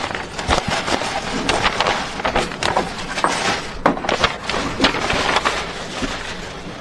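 Irregular knocks, clicks and rustling of wooden flat-pack furniture panels and parts being handled during assembly.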